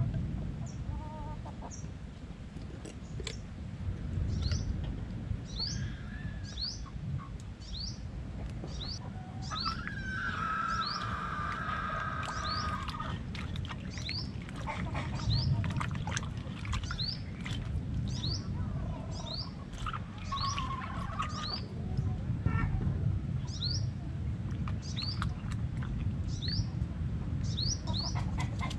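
Small birds chirping: one short, high, downward-sliding chirp repeats about once a second, with a longer call in the middle. A low rumble and occasional light knocks run underneath.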